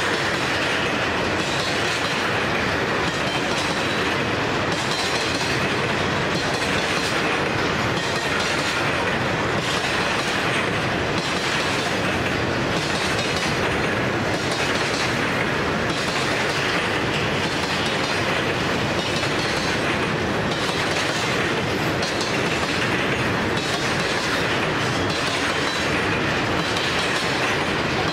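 A freight train of VHAF grain hopper wagons rolling steadily past, a continuous run of noise with wheels clicking over the rail joints.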